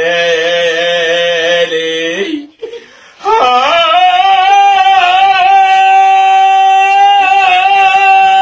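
A singer's voice holding long, drawn-out wailing notes without words: a wavering note that breaks off about two seconds in, a short pause for breath, then a second note held steady for about five seconds.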